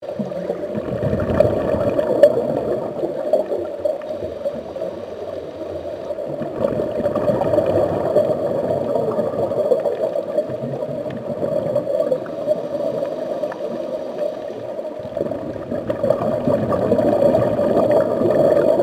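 Steady underwater water ambience, a continuous rushing, gurgling noise laid under footage of moon jellyfish.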